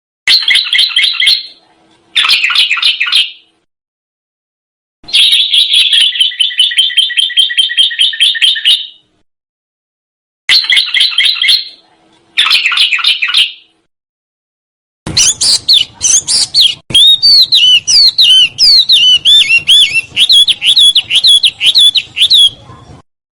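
Songbird song in edited cuts: five dense, rapid rattling trills (rolls), mostly about a second long with one of about four seconds, separated by dead-silent gaps. After that comes a long, varied song of fast up-and-down whistled notes that stops abruptly.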